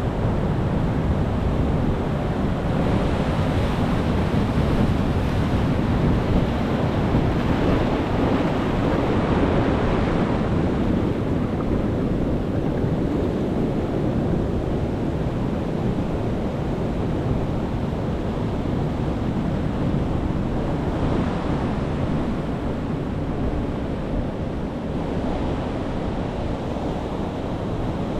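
Ocean waves breaking and washing onto shore in a steady deep rush, with surges as waves break about three seconds in, again around eight to ten seconds, and a couple more near the end.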